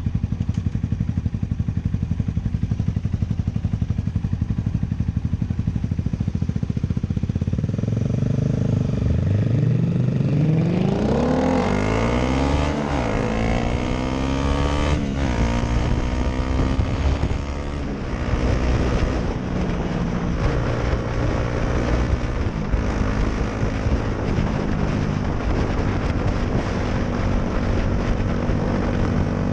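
Motorcycle engine idling, then pulling away about eight seconds in, its pitch climbing and dropping back through a couple of upshifts, then running steadily at cruising speed.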